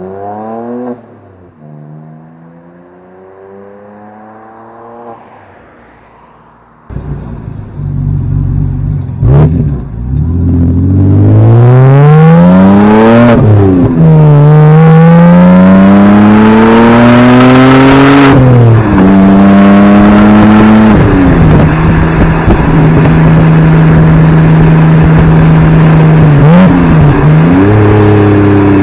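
BMW N52 straight-six running through a muffler-delete exhaust, pulling up through the gears: the pitch climbs and falls back at each upshift, then settles into a steady drone at cruise. It is quieter at first and gets much louder about a quarter of the way in.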